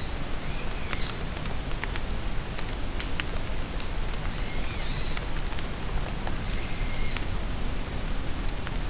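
Steady rain falling in a forest, with scattered sharp drips, while a songbird sings three short high phrases: about half a second in, around five seconds and around seven seconds.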